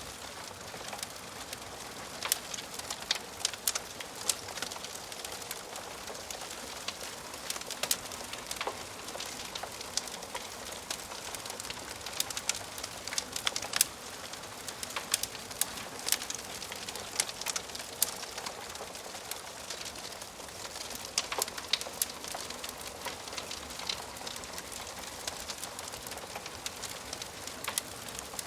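Wood fire crackling in a fireplace: a steady soft hiss with frequent, irregular sharp pops and snaps from the burning wood.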